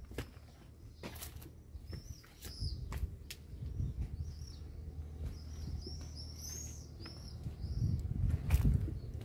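Small birds chirping over and over in short high calls, with a few sharp steps on stone. A low rumble grows louder near the end.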